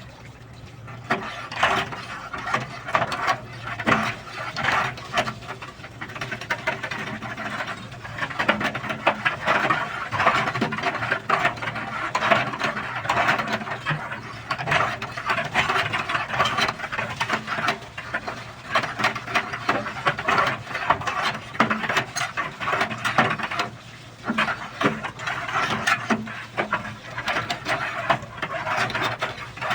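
Continuous irregular scraping and rasping made of dense small clicks and grating strokes, easing off briefly twice.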